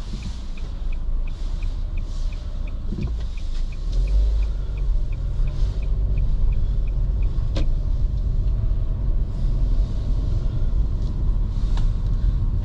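Car engine and road rumble heard from inside the moving car, growing louder about four seconds in as it picks up speed. A light, rapid, even ticking runs through the first half and stops about six seconds in.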